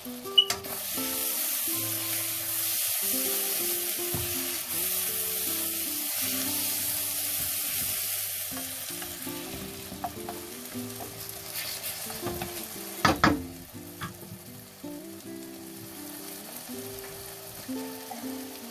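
Fish and tomato sizzling in a wok while a wooden spatula stirs them. The sizzle is loudest in the first half, with sharp knocks of the spatula against the pan about half a second in and again around two-thirds of the way through.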